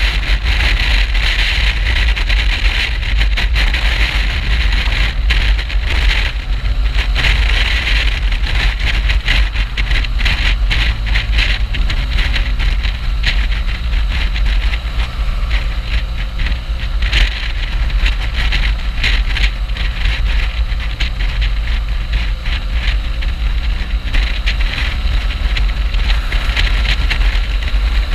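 Riding on a BMW R1200GS motorcycle: steady wind rush and buffeting on the microphone over the low running of its boxer-twin engine.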